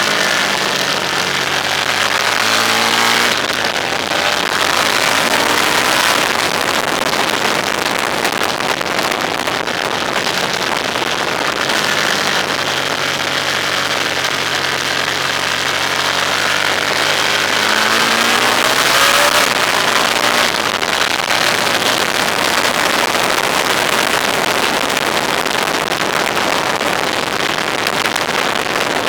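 Road vehicle driving, with a steady rush of road and wind noise over the engine. The engine's pitch climbs twice as it accelerates, about two seconds in and again about two-thirds of the way through.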